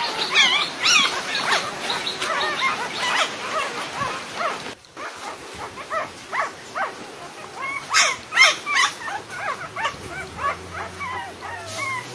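Several dogs whimpering and yipping: many short, high whines in quick succession, with a brief break about five seconds in.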